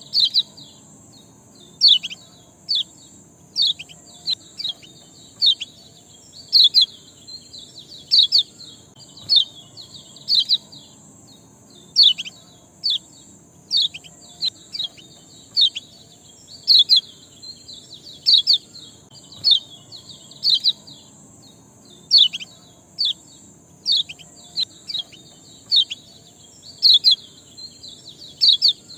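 Songbird chirping: short, sharp calls that sweep quickly downward, repeated roughly once a second at irregular intervals, some in quick pairs, over a steady high hiss.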